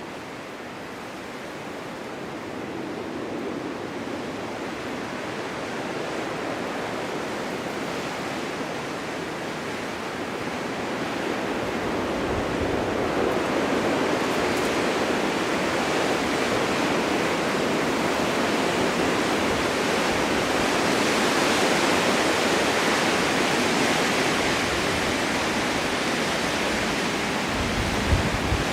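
Winter wind gusting in a snowstorm, a steady rushing that swells about halfway through and stays strong, with low buffeting rumbles near the end.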